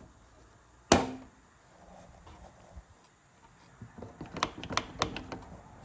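A single sharp knock about a second in, then a run of light clicks and taps from about four seconds on: hand tools and clamps being handled on a wooden door while a track saw is set up.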